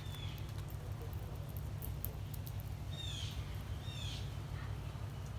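Small songbirds calling: three short, sharp downslurred chirps, one at the start and two about three and four seconds in, over faint scattered ticks and a steady low hum.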